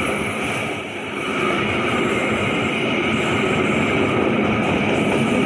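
Passenger train coaches rolling past at close range: the loud, steady noise of steel wheels running on the rails.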